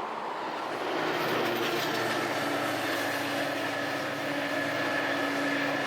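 A large vehicle running steadily, a rumbling noise that swells about a second in, with a low hum and a fainter high whine held throughout.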